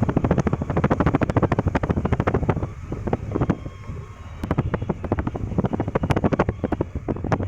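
Car on the move, heard from inside: a steady low rumble with rapid rattling clatter over it, easing off briefly midway, and wind on the microphone.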